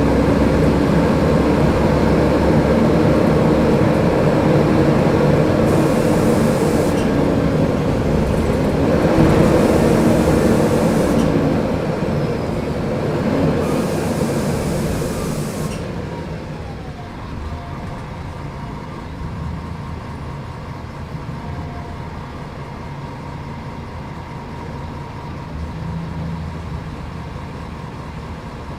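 Diesel engine of a Mercedes-Benz O500UDA articulated bus running loud under load, its pitch rising briefly, with spells of hiss. Roughly halfway through it falls away to a quieter, steady running.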